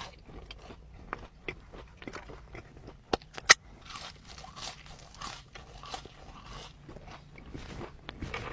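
A person eating close to the microphone: chewing and biting, with many small crackling clicks and two sharp louder clicks about three seconds in.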